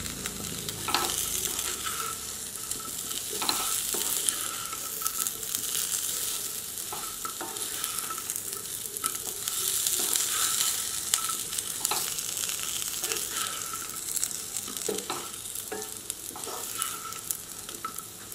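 Chopped boiled taro (colocasia) pieces and curry leaves sizzling in hot oil in a nonstick frying pan, stirred with a wooden spatula that scrapes and knocks against the pan at irregular moments.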